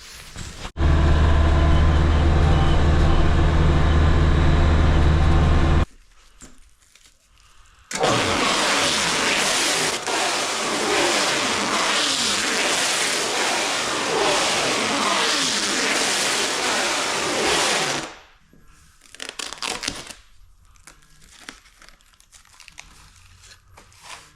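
A vehicle's engine running steadily for several seconds, cutting off abruptly. After a short pause comes a longer stretch of louder, rougher engine and driving noise. The last few seconds hold only faint scattered knocks.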